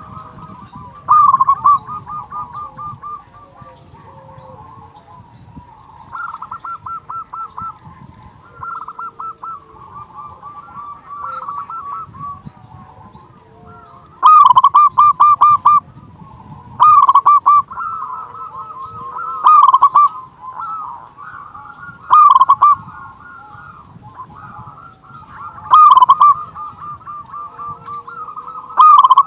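Zebra doves (local perkutut) singing: repeated rapid, rolling cooing phrases, several birds overlapping. A few phrases ring out much louder than the rest, coming every two to three seconds in the second half.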